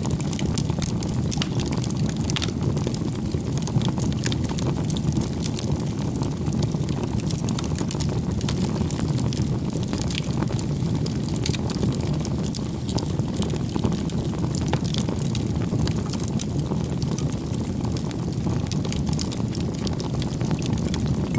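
Bonfire burning: a steady low rush of flames with frequent small crackles throughout.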